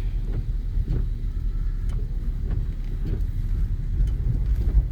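A car driving, heard from inside the cabin: a steady low rumble of engine and tyres, with a few faint ticks.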